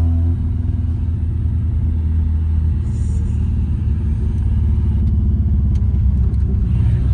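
A car engine running with a steady, loud low rumble.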